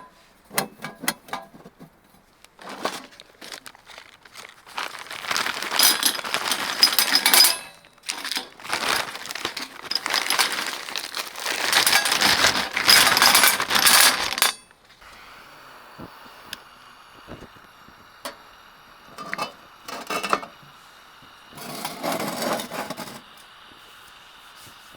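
Metal items clinking and rattling against each other as camp gear is handled, in two long bursts of dense jingling, then scattered clicks and a shorter rattle near the end.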